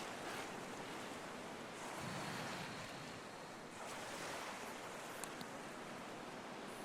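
Ocean waves washing onto a shore: a steady rushing surf that swells twice and eases.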